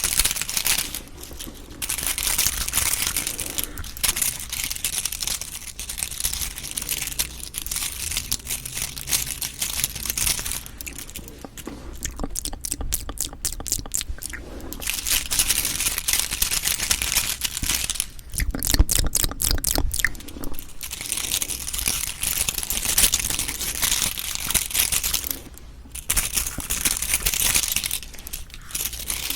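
Close-miked cup jelly eating: crinkling plastic and wet squishing of Cheonhyehyang citrus jelly. Two stretches of quick, evenly spaced clicking come a little before the middle and about two thirds of the way through.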